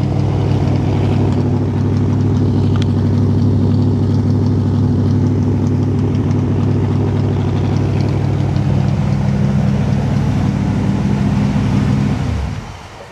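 1960 Pontiac Bonneville's 389 V8 idling steadily with a deep, even note, then switched off about twelve seconds in, the note sinking as it winds down.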